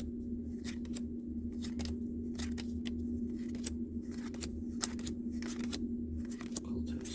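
Trading cards being handled and flipped one by one, making irregular sharp clicks and snaps, over a steady low hum.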